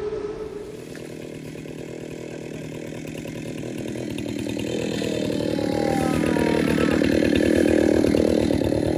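Chainsaw running, growing steadily louder, with its pitch shifting up and down around the middle.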